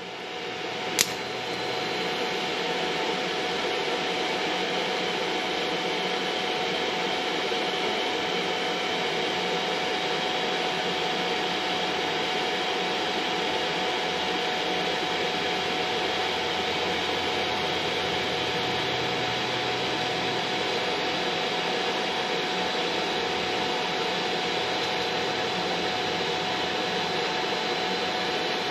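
TIG welder running steadily on the stainless exhaust pipe: an even hiss and hum with a faint steady high whine, switching on with a click about a second in.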